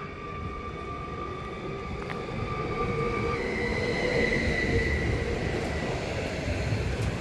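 Electric train moving through the station: a low rolling rumble with a steady electric whine that changes pitch about three seconds in, growing louder as it comes closer.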